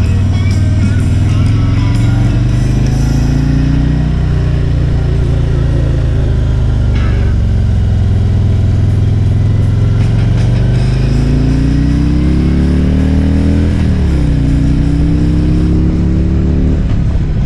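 Harley-Davidson Electra Glide V-twin engine under way, its pitch climbing as it accelerates, dropping sharply at a gear change about three quarters of the way through, then climbing again. Music plays along with it.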